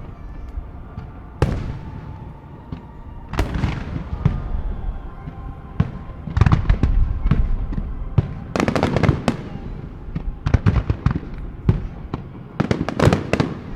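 Fireworks display: aerial shells bursting one after another, booms with crackling tails, turning into a dense run of rapid bangs in the second half.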